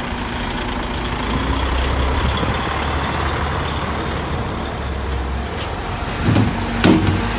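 Truck running with a steady low rumble, with a short hiss just after the start and a few sharp knocks in the last second and a half.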